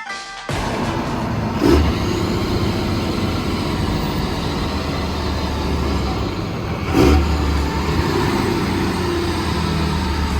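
Motor vehicle engine running with a steady low drone. Two short, sudden louder moments come about two seconds in and about seven seconds in.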